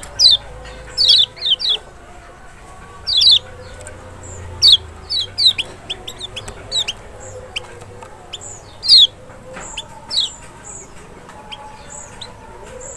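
Kecial (Lombok white-eye, a lemon-bellied white-eye) calling: quick runs of short chirps that drop sharply in pitch, with fainter high notes in the second half.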